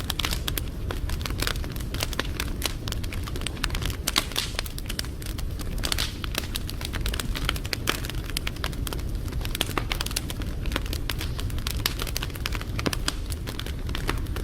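Wood fire crackling, with frequent irregular sharp pops over a steady low rumble of burning.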